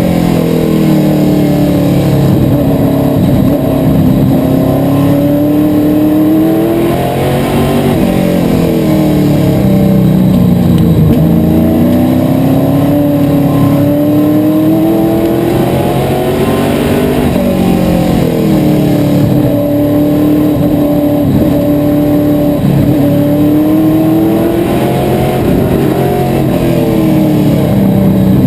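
Asphalt modified race car's V8 engine at racing speed. The revs climb and fall in a repeating pattern about every eight to nine seconds, the engine pulling hard down the straights and backing off into the turns, lap after lap.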